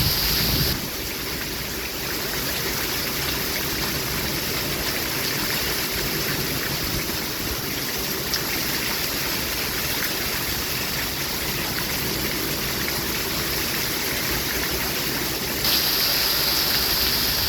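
Steady rain falling, an even hiss of water with no pauses; near the end it gets louder and brighter in its high hiss.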